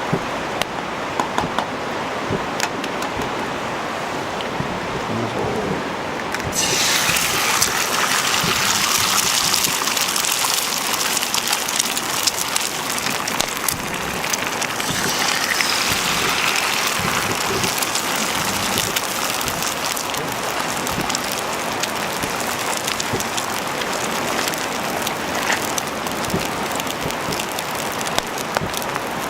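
A wood fire crackling with small sharp pops; about six and a half seconds in, a loud sizzle starts suddenly as food goes into the hot pan, and the frying sizzle carries on, easing off slightly later.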